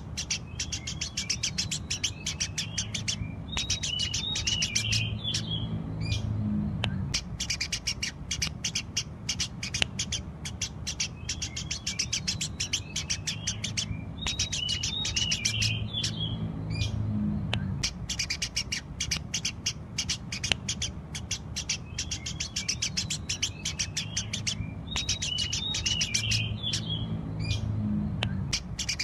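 Eurasian tree sparrows chirping continuously in rapid, busy chatter. The same phrase pattern comes round about every eleven seconds, as in a looped recording.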